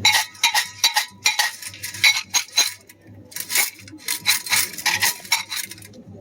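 Omikuji fortune canister being shaken, the sticks inside clattering against its walls in two bouts of quick rattling.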